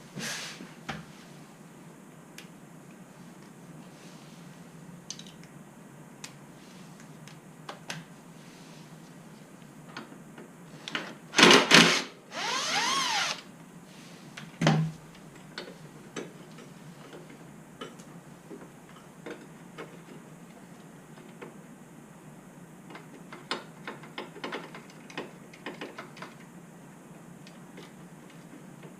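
Hand tools working on a motorcycle, likely an Allen key loosening a screw: scattered metal clicks and clinks, a louder clatter with a short grinding burst about eleven to thirteen seconds in, one knock a little later, and a quick run of clicks near the end.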